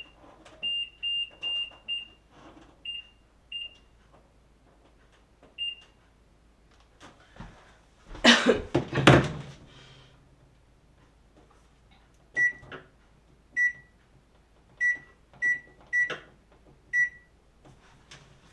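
Microwave oven keypad beeping at each button press as its clock is reset after a power outage: a run of about nine short high beeps. About eight seconds in there is a loud clatter, then a second run of seven short, slightly lower keypad beeps.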